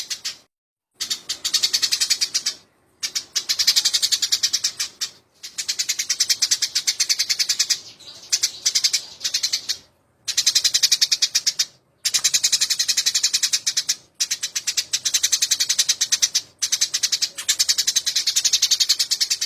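Eurasian tree sparrows fighting: rapid, continuous chirping chatter in bouts of one to two seconds with brief breaks between them.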